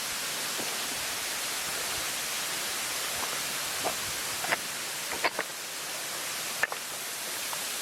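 Steady rushing hiss of Webster's Falls' water heard close by, with a few short, sharp ticks about four to seven seconds in.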